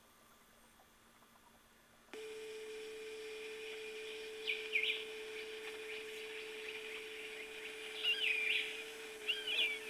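Near silence at first. About two seconds in, a steady low hum starts and runs under a few short bird chirps that slide up and down in pitch, in three brief groups.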